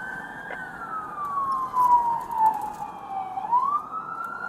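Police car siren on wail: its pitch slides slowly down over about three seconds, then sweeps back up near the end.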